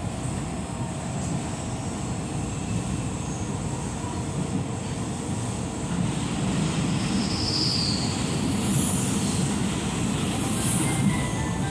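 Passenger train running along the track, a steady rumble heard from inside the carriage, with a few brief high-pitched squeals in the second half.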